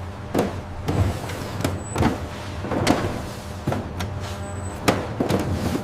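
Jar-packing line machinery running: a steady motor hum with irregular clicks and knocks about once or twice a second.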